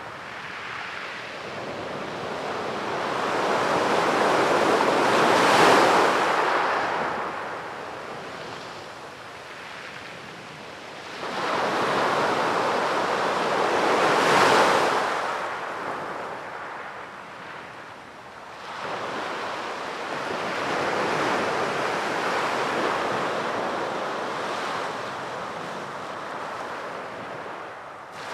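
Sea waves breaking on a beach shore and washing back in slow surges. Three waves build and break: the loudest about six seconds in, another around fourteen seconds, and a longer, gentler one in the second half.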